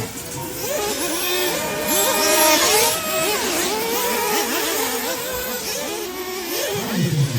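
Several 1/8-scale nitro off-road RC buggies racing on a track, their small glow engines revving up and down with many overlapping, constantly sliding pitches.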